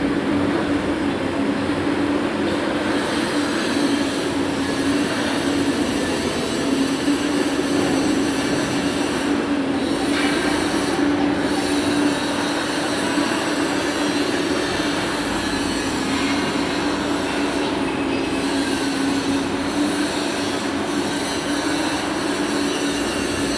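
Steady workshop machinery noise: a constant low hum with a hiss over it, unbroken and without speech.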